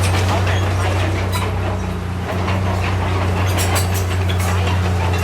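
Heavy earthmoving machine's diesel engine running steadily with a low drone, under repeated metallic clanking and rattling.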